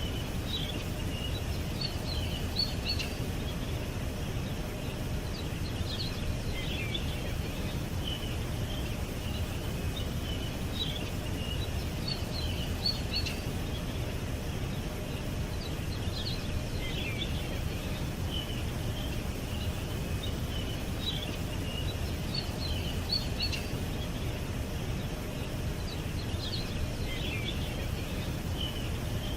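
Small birds chirping and twittering in short high calls over a steady low rumble of outdoor background noise. The same run of chirps comes back about every ten seconds, as in a looped recording.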